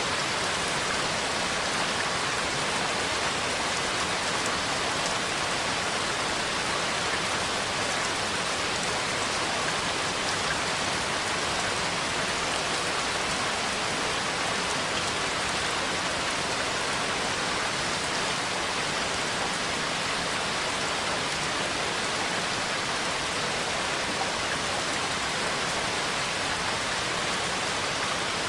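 Steady rain falling, an even hiss of drops with faint scattered patters and no thunder.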